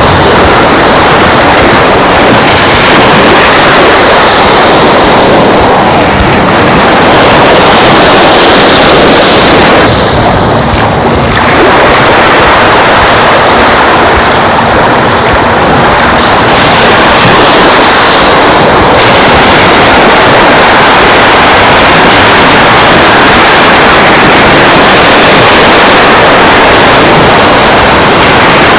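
Loud, steady rush of Gulf surf and wind along the shore, easing briefly about ten seconds in.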